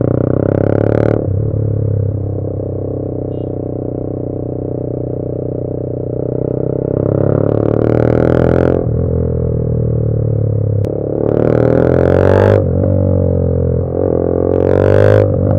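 TVS Apache RR 310's single-cylinder engine idling in neutral through an SC Project slip-on exhaust, very loud, with four sharp throttle blips that rise and fall back to idle.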